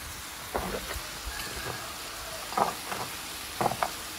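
Rooster pieces with onion and tomato sizzling as they brown in a large metal pot and are stirred with a spoon. A few short scrapes and knocks from the stirring stand out over the steady sizzle.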